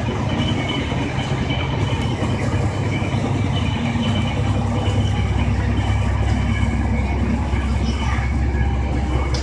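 JR Shikoku 2000-series diesel railcar's engine running steadily with a low rumble, which grows deeper and stronger about four seconds in.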